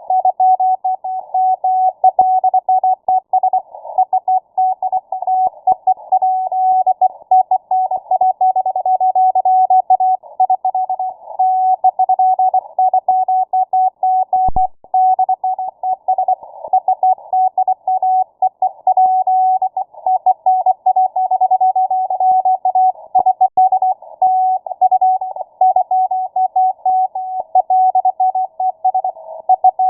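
Morse code (CW) signal received on shortwave through a WebSDR: a single steady tone keyed rapidly on and off in dots and dashes, with band noise hissing around it in the receiver's narrow passband.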